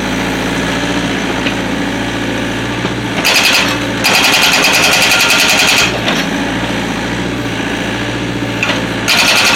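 Excavator-mounted hydraulic breaker hammering in rapid blows while splitting firewood logs: a short burst a little past three seconds, a longer one of about two seconds, and another starting near the end. Between bursts the excavator's diesel engine runs steadily.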